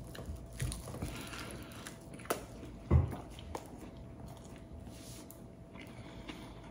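A person chewing a mouthful of luncheon-meat and egg baguette sandwich close to the microphone, with faint moist mouth sounds and small crackles. There is a sharp click a little over two seconds in and a short, low thump at about three seconds.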